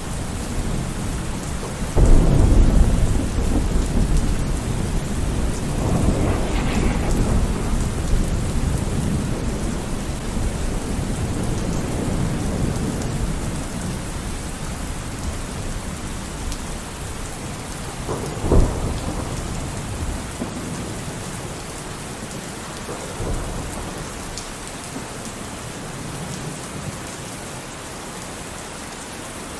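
Steady heavy rain with thunder: a sudden loud crack about two seconds in that rolls on as rumbling, another rumble a few seconds later, and a short sharp clap about eighteen seconds in. The rumbling dies away towards the end, leaving the rain.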